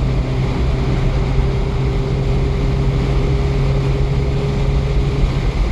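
Abarth 595C's turbocharged four-cylinder and Record Monza exhaust giving a steady drone at high highway speed, buried in a heavy hiss of wind and road noise. The pitch holds level throughout.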